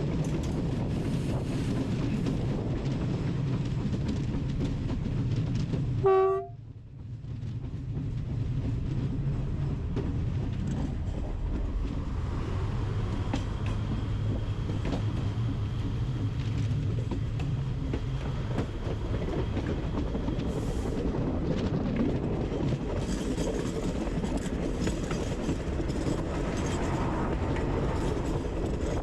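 A train running on the track with a steady rumble and a clickety-clack. About six seconds in, a short horn-like tone sounds, the sound drops away abruptly, then the rumble builds back.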